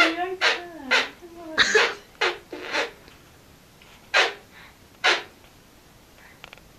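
A man making a funny noise with his lips and breath: a run of short, sharp sneeze-like puffs, quick in the first three seconds, then two more spaced about a second apart. A low hum-like voice tone sounds under the first puffs.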